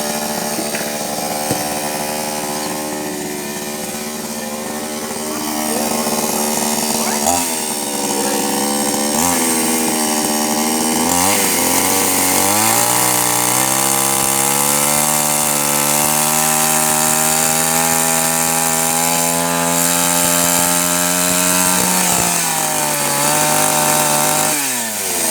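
Two-stroke chainsaw running while cutting logs, its engine pitch dipping and climbing several times in the first half. It holds a steady high pitch through most of the second half, then drops briefly near the end.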